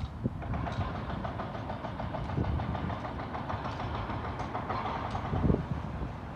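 Heavy demolition machinery running steadily with a fast clatter, and a few dull thumps, the loudest about five and a half seconds in.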